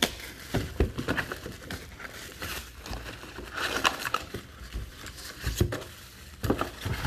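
Crinkling and rustling of trading-card pack wrappers and packaging being handled, with scattered light taps and clicks.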